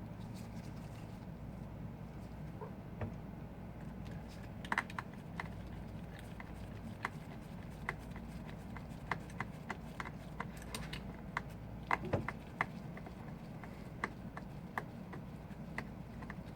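Small irregular clicks and taps of precision tools and tiny parts being worked on an iPhone 5 during disassembly, over a steady low hum.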